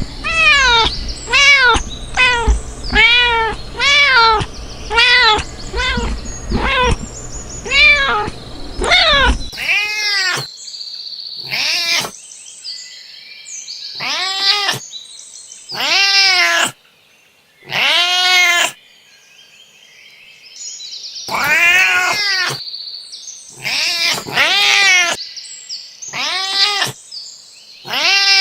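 Domestic cat meows: a quick run of about nine rising-and-falling meows, roughly one a second, over a low rumble, then, from about ten seconds in, single meows spaced a second or more apart with quiet between them.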